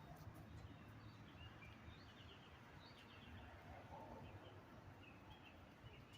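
Near silence: faint outdoor background hum with faint, short bird chirps here and there, a quick run of them about two to three seconds in.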